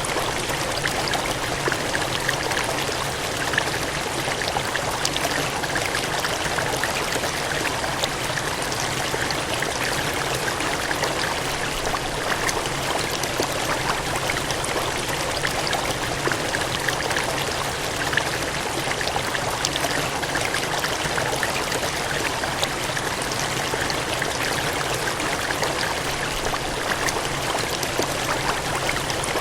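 Water gushing and cascading steadily, an even rushing noise with small splashes flickering through it and no change in flow.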